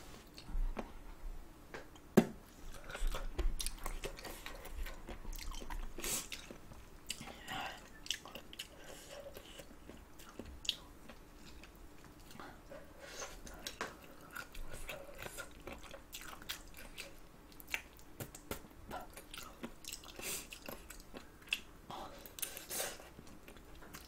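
Close-miked wet chewing and biting of spicy chicken feet, with a steady string of small mouth clicks and smacks. A sharp click about two seconds in is the loudest sound.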